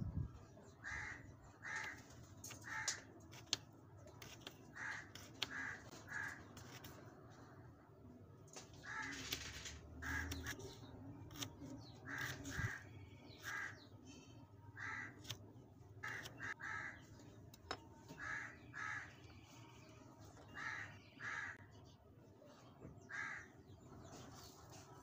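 Birds calling in short repeated calls, mostly in twos and threes, with faint taps of a small knife cutting potato on a wooden board.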